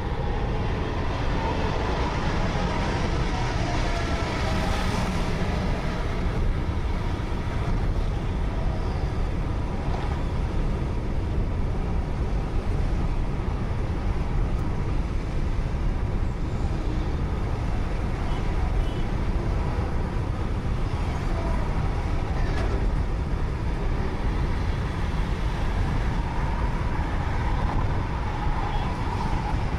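Steady road and engine noise of a moving car, heard from inside, strongest in the low rumble and with a few faint wavering tones above it.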